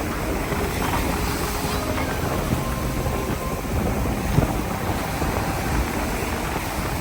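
Wind buffeting the microphone in a steady low rumble, with a brief thump about four seconds in.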